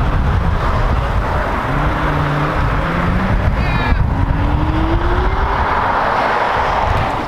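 Lexus LFA's V10 engine accelerating away, its pitch climbing, breaking off about four seconds in for a gear change, then climbing again.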